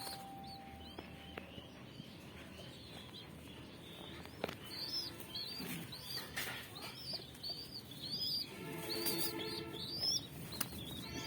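A small bird chirping over and over, short high calls about twice a second, starting around five seconds in. About eight seconds in, a steady chord of held tones joins them.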